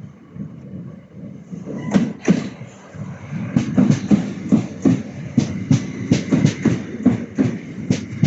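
Southeastern Class 375 electric multiple unit running through the station, its wheels clacking over rail joints and points in a rapid run of clicks that starts about two seconds in, over a steady rumble.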